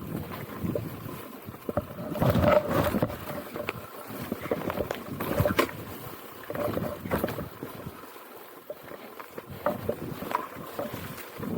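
Enduro motorcycle engine running, its revs rising and falling unevenly, with wind noise on the microphone.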